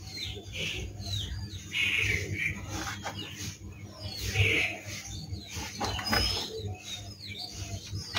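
Small birds chirping, with short falling chirps repeated every half second or so, over a low steady hum.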